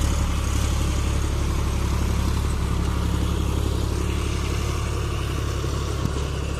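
John Deere 5050D tractor's three-cylinder diesel engine running steadily.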